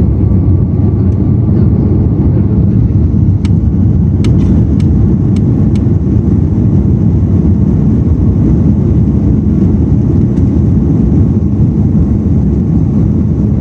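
Airbus A330-300 with Pratt & Whitney PW4168A engines, heard from inside the cabin on the runway just after takeoff clearance: a loud, steady low rumble of engine and airframe noise. A few light clicks come between about three and six seconds in.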